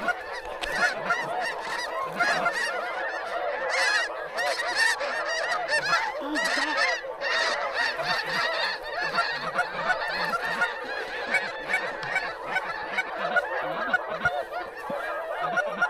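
A large flock of geese honking, many short calls overlapping without a break.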